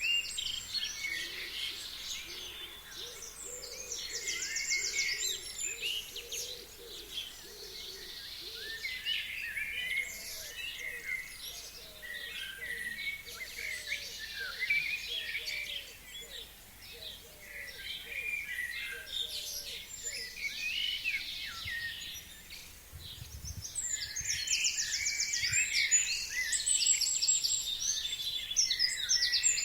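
Spring chorus of forest birds singing, many overlapping high-pitched calls and trills. A lower-pitched call repeats steadily beneath them through the first half.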